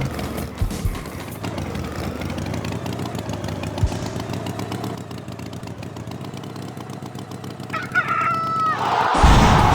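A rooster crows once, briefly, about eight seconds in, over a steady background noise. Just before the end a louder rushing noise sets in.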